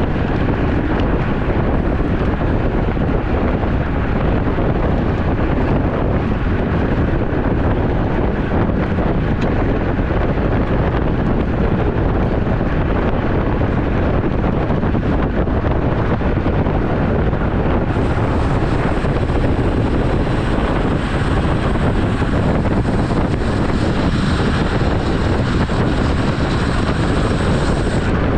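Steady wind rushing over the microphone of a camera on a moving road bike. In the last ten seconds a faint high whine joins it.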